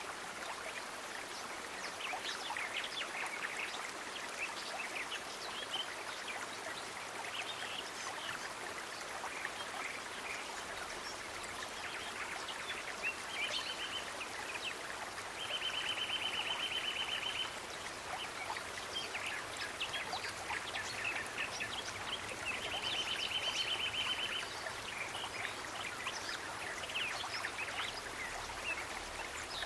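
Steady rush of a flowing stream with birds chirping over it. Among the chirps, a rapid, even trill comes three times, the later two lasting about two seconds each.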